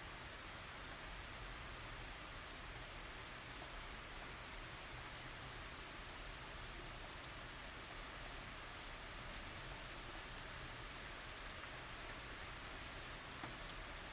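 Steady tropical rain falling on surfaces, an even hiss with many small drop ticks.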